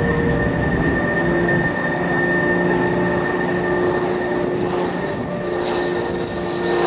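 Extra 300L aerobatic monoplane's six-cylinder Lycoming engine and propeller running steadily during a hard positive-G pull, heard as a continuous engine drone.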